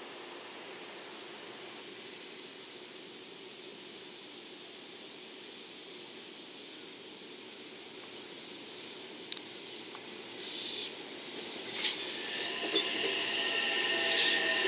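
JR West 227 series six-car electric train coming round a curve toward the listener. Faint and steady at first; from about ten seconds in, the wheels grow louder, with knocks over the rail joints and a steady high squeal of wheels on the curve building up near the end.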